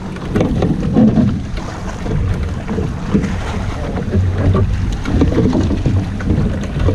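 Wind buffeting the microphone aboard a small sailboat under way, with water rushing and slapping at the hull. A low steady hum joins about four seconds in.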